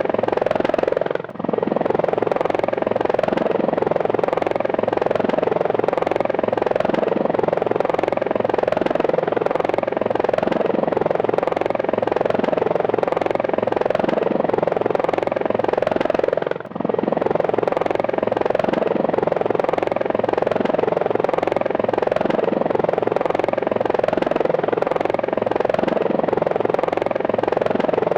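Helicopter in flight, its rotor chop and turbine running steadily, with two brief drops in level, one about a second in and one about halfway through.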